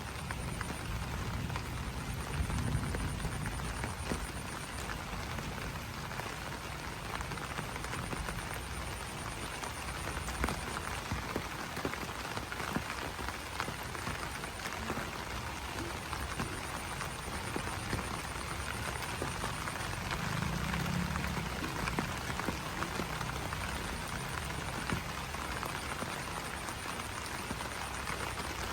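Steady rain pattering on broad banana leaves, a dense spread of small drop ticks. A faint, high, pulsing trill comes and goes in the background.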